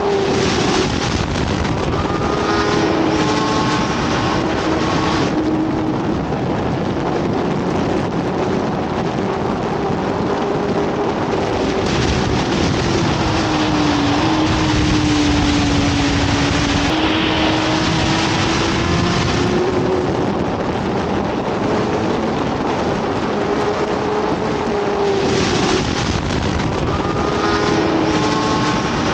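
BMW S1000RR's inline-four engine running at speed under heavy wind rush, its pitch drifting gently down and back up a few times.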